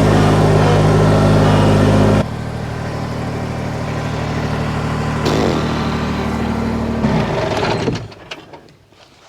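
Kubota BX2380 compact tractor's three-cylinder diesel engine running steadily. About two seconds in it drops abruptly in loudness, then runs on and winds down to a stop near the end as the engine is shut off.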